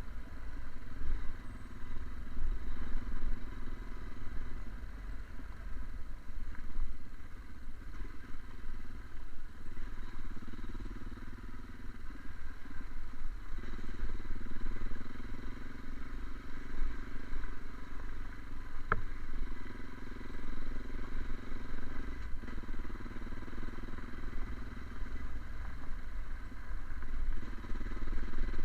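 Fiat Strada pickup driving: a steady low rumble of engine and road noise, the engine note rising and falling several times as it changes speed. A single sharp knock sounds about two-thirds of the way through.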